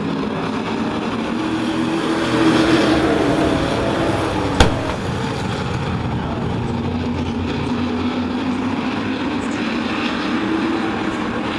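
Race trucks' engines running on the oval, the sound swelling as the pack goes by about two to four seconds in. A single sharp crack comes about four and a half seconds in.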